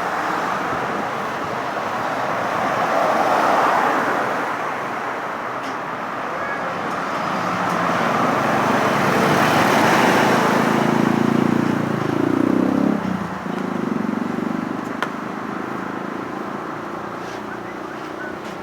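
Road traffic passing at a green light, motorcycles among it. It swells twice as vehicles go by, and about twelve seconds in an engine's note climbs, then drops sharply, before fading away.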